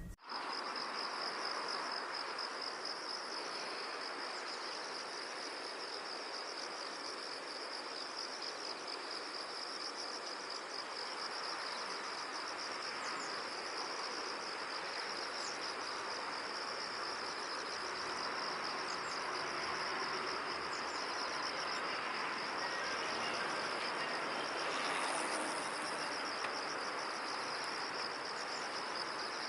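Steady insect chorus: a continuous, finely pulsing high trill of the cricket kind over an even background hiss.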